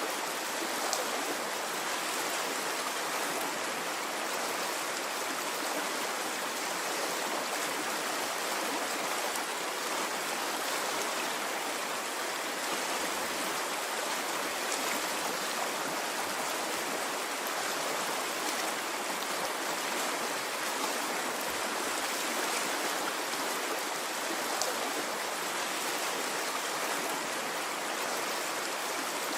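Water flowing steadily in a stream, an even rushing and babbling with no rise and fall.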